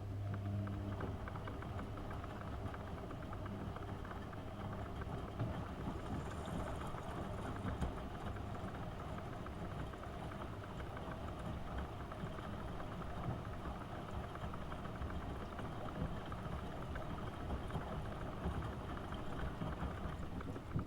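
AEG Öko-Lavamat 72520 washing machine's motor turning the drum in one wash-cycle tumble, with laundry and water sloshing inside. It starts at once with a low hum, runs steadily for about twenty seconds, then stops.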